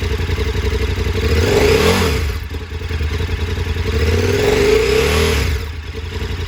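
2014 KTM 1190 Adventure R's twin-cylinder engine idling and revved twice, rising and falling each time, around two seconds in and again around five seconds in.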